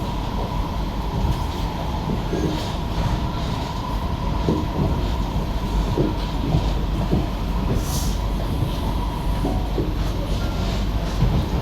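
SMRT C151B metro train running, heard from inside the car: a steady rumble of wheels on the rails with a faint steady whine and scattered short knocks from the track.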